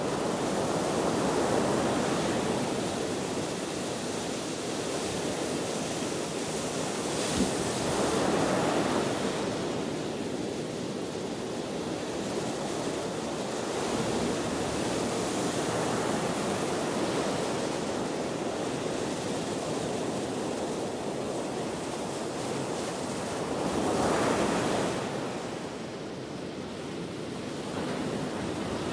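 Ocean waves breaking and washing on the shore, with wind blowing, as a steady rush that swells three times as waves come in. There is one brief sharp tap about seven seconds in.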